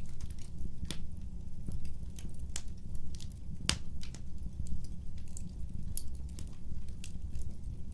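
Wood fire burning, with irregular sharp crackles and pops over a steady low rumble; the loudest pop comes a little before halfway.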